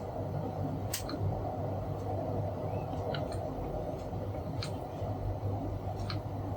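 A few light, scattered clicks and taps of small tools at work while hand-soldering a ribbon cable, over a steady low hum.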